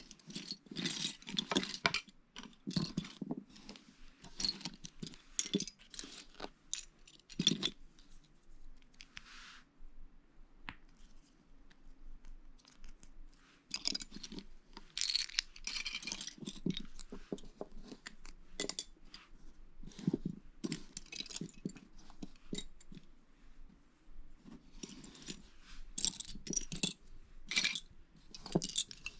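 Plastic Lego pieces clattering and clicking as they are picked through and snapped together during a build: a steady run of short clicks and rattles.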